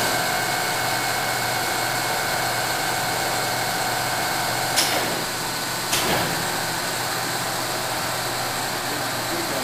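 Nardini AM 3280 engine lathe with its 30 hp motor running, spindle turning forward, giving a steady machine hum with a high whine from the drive. Two short sharp clicks come about five and six seconds in.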